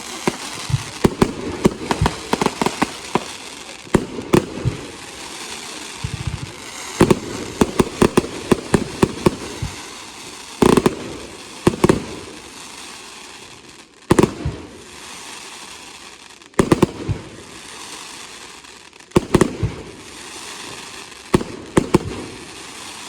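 Retail consumer fireworks going off in a display: repeated volleys of sharp bangs in clusters every couple of seconds, with a hiss between the volleys.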